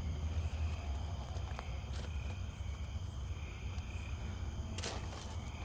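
Night insects chirping in a slow, repeating pattern over a steady low rumble, with a short burst of noise about five seconds in.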